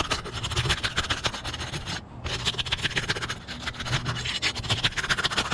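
Gritty scratching and rubbing of hands working the edge of an asphalt roof shingle, in two spells with a short break about two seconds in.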